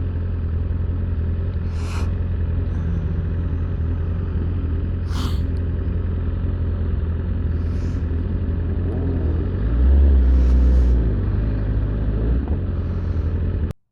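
BMW S1000RR inline-four motorcycle engine running steadily at low revs, with a deep low rumble and a few brief clicks, a little louder around two-thirds of the way in. It cuts off suddenly just before the end.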